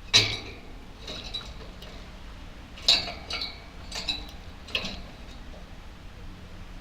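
Budgerigars making about five short, sharp clicks, the first the loudest, over a faint steady hum.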